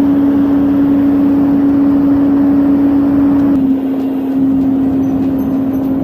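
Motorised forestry machinery running flat out with a steady high hum over a loud rushing noise. The sound changes abruptly about three and a half seconds in and becomes a little quieter.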